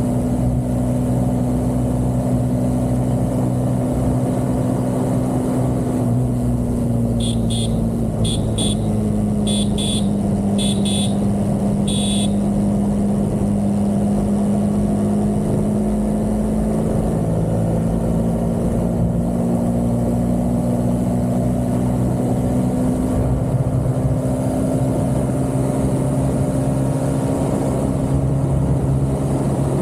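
Vehicle engine running steadily at cruise, its pitch dipping slightly then slowly rising again later on. A run of six short, high beeps sounds about seven to twelve seconds in.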